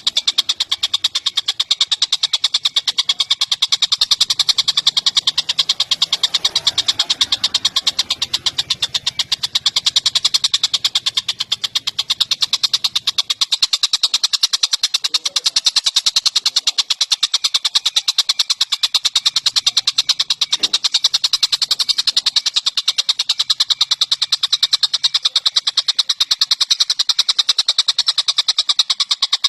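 A bird known to Indonesian bird-keepers as tengkek cililin giving a long, unbroken, high-pitched trill of very rapid, evenly repeated notes, with no pause.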